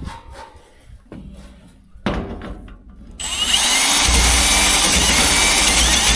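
A few light handling knocks, then about three seconds in a power drill starts boring into the metal wall of a drained oil tank, enlarging the hole so a float sensor will fit. It runs steadily and loudly, with high scratchy squeals from the bit cutting the metal.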